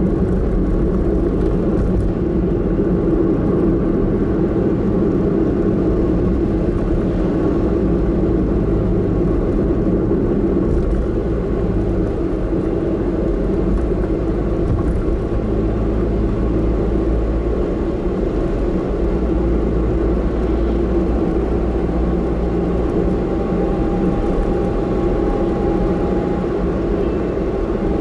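Car engine and road noise heard from inside the cabin while driving: a steady low rumble, with a faint whine rising slightly in pitch in the second half.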